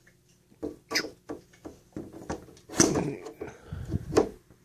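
Plastic phone mount and its clamp being handled: a string of irregular clicks and knocks, a few bunched together in the middle and near the end.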